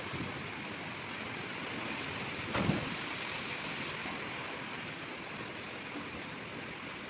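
Heavy rain falling steadily, with a brief thump about two and a half seconds in.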